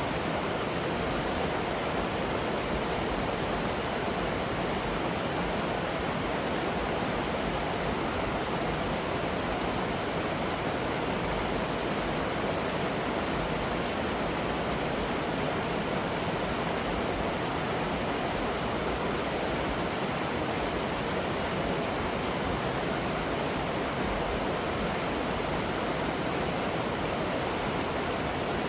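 Waterfall running steadily, an even rush of falling water with no breaks or changes.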